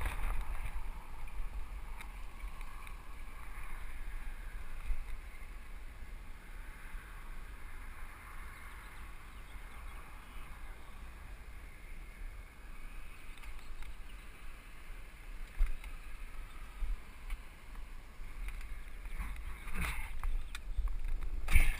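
Helmet-cam riding noise from a Specialized FSR Pro mountain bike on a rocky trail: steady wind rumble on the camera and tyre noise, with a few sharp knocks and rattles as the bike hits rocks, the loudest ones near the end.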